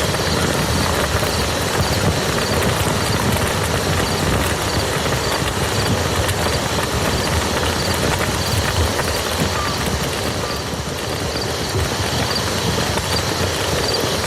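Steady rain falling on a muddy field, a dense, continuous patter of drops.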